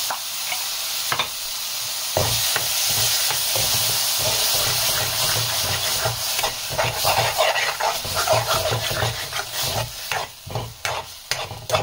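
Chopped tomatoes and onion masala sizzling in hot oil in a metal kadhai while a long steel spoon stirs and scrapes the pan. The scraping strokes come thicker in the second half.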